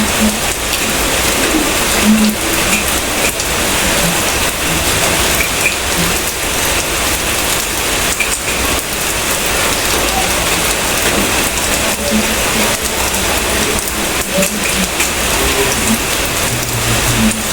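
Steady rain falling on a surface, a dense even hiss that holds level throughout.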